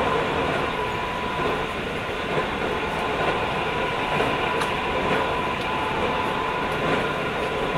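Keio 5000-series electric train heard from inside a passenger car while running: a steady rumble of wheels and running gear on the track, with a thin steady whine that fades away around the middle.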